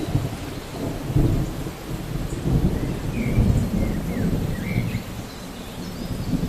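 Thunder rumbling in slow rolling swells over steady rain, with a few short, faint high chirps in the middle.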